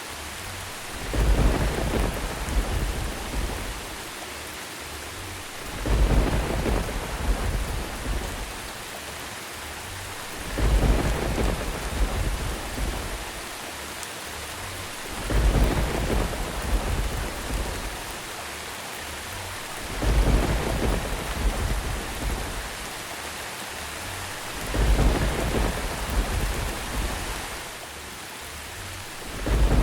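Steady rain with a low thunder rumble that swells and fades about every five seconds, at very even spacing, about six times.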